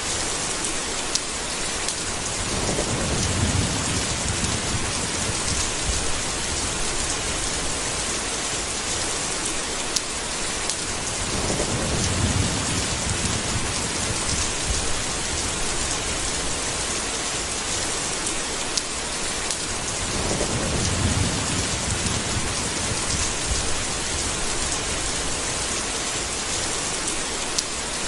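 Steady heavy rain, with scattered sharp drop ticks, under three low rolls of thunder that swell and fade about every eight or nine seconds.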